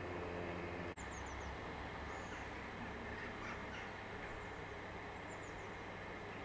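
Small birds chirping in short, high, scattered calls over a low steady rumble. A steady hum breaks off in a brief dropout about a second in.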